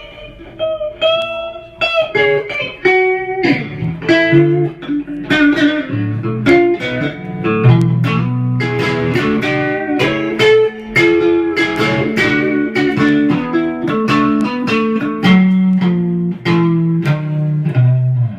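Electric guitar playing a blues riff: a run of picked single notes over low bass notes.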